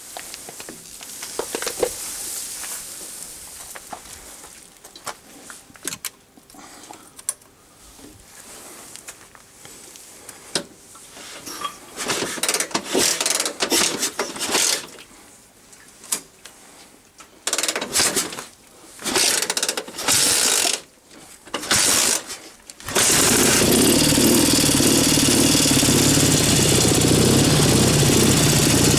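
Clattering and short bursts of noise, then about 23 seconds in a Dnepr K-650 motorcycle's opposed-twin engine comes in suddenly and runs steadily.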